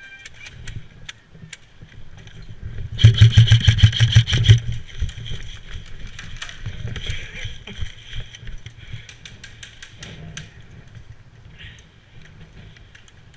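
Airsoft electric gun firing a rapid full-auto burst lasting about a second and a half, with scattered single clicks of shots or BB hits before and after.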